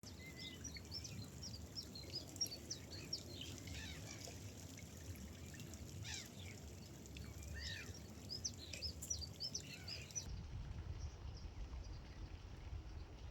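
A flock of gulls calling: many short high calls overlapping over low water and wind noise. About ten seconds in the calls stop abruptly and only the low wind and water noise is left.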